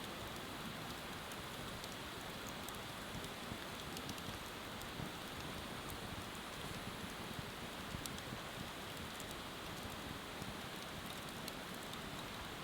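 Wood bonfire crackling, with sharp pops scattered irregularly through a steady, even hiss.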